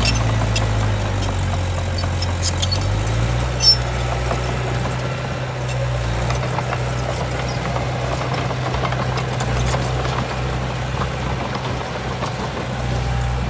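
Heavy construction machine's diesel engine running steadily; its pitch drops briefly and comes back up about three seconds in. Scattered light clicks are heard, with one sharp knock near four seconds.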